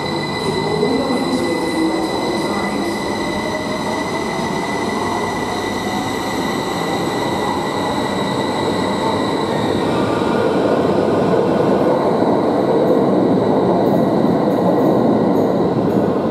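Heathrow Express Class 332 electric train pulling out of an underground platform and accelerating into the tunnel: a steady high whine with a slowly rising motor tone. About ten seconds in, the whine gives way to a louder rushing rumble from the tunnel.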